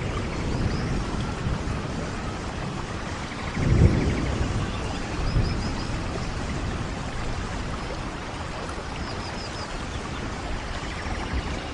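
Steady rain, with a low rumble of distant thunder swelling about four seconds in.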